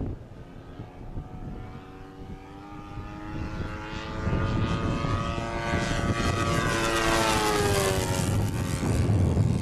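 Supercharged YS 110 four-stroke glow engine of an RC pylon racer turning a 13x10 two-blade propeller in a flyby: the engine note grows louder as the plane approaches, then drops in pitch and fades as it passes and moves away. Wind rumbles on the microphone underneath.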